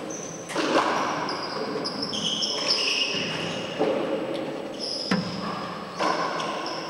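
Handball rally in a four-wall court: a handful of sharp smacks of the rubber ball off hands and walls, ringing in the enclosed court, with sneakers squeaking in short high squeals on the court floor between the hits.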